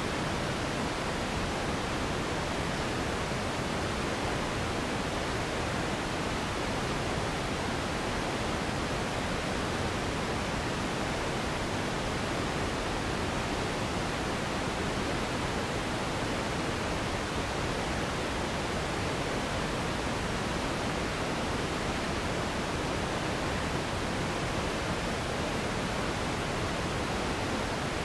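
Steady relaxation noise for sleep: an even, unchanging hiss with no breaks or events.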